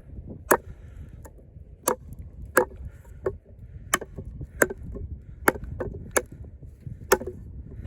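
Heavy 6 mm Sleipner steel combat knife chopping into pressure-treated wood with the rear of its blade: about ten sharp strikes, roughly one every two-thirds of a second, each biting into the wood.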